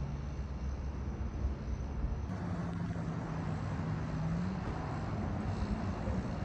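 Steady low rumble of vehicle noise, with a low hum that holds one pitch for a couple of seconds near the middle.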